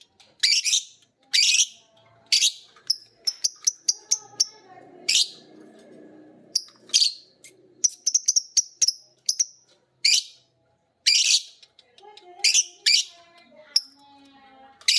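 Lovebirds calling: loud, short, shrill chirps repeating about once a second, with quick runs of rapid chirps in between.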